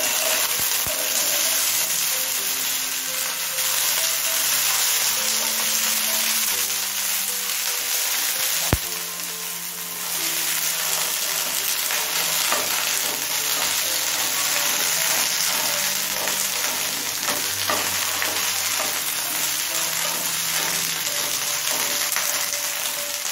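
Okra frying in hot mustard oil in a pan: a steady, loud sizzle, with a wooden spatula stirring and scraping the okra around. A single sharp knock about nine seconds in.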